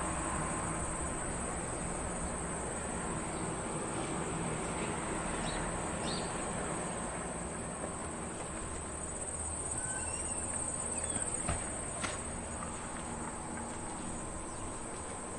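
Suburban afternoon ambience: a steady, high-pitched chirring of insects over a low distant rumble, with a few short bird chirps and a couple of sharp clicks about two-thirds of the way through.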